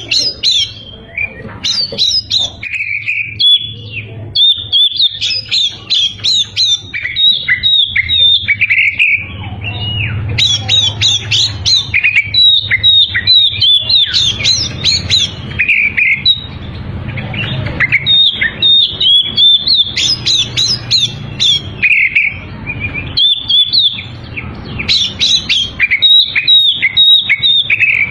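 Oriental magpie-robin (kacer) singing in full voice: a fast, varied run of chirps, whistles and short harsh notes, phrase after phrase with brief pauses. A low steady hum runs underneath.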